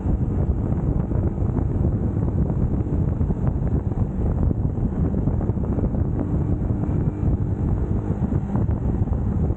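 Wind rushing over the microphone at riding speed, with the UM Scrambler X motorcycle's engine running underneath, steady throughout.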